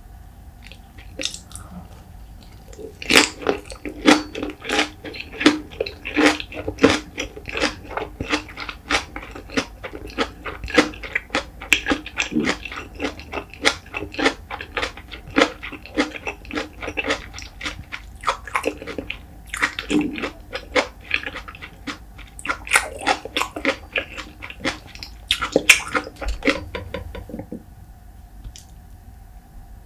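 Close-miked chewing of a cabbage-leaf wrap of white rice and salted pollock roe: rapid, wet mouth clicks and smacks. It starts about three seconds in and stops shortly before the end.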